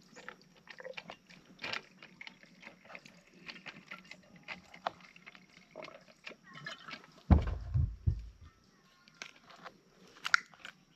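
Food being prepared by hand: irregular clicks, taps and crunches of cutting and handling vegetables and utensils. A brief low thudding rumble about seven seconds in is the loudest sound.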